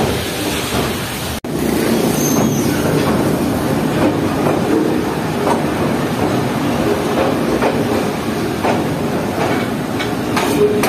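Freight train heard from inside its guard van while running: a steady rumble and rattle of the wagons, with irregular clacks of wheels over rail joints.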